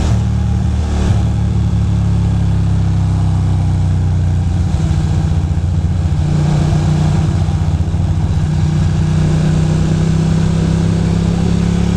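Ducati Monster 620's air-cooled L-twin engine running steadily under way, with a slight change in its note about a second in and again around the middle, over a steady rush of wind and road noise.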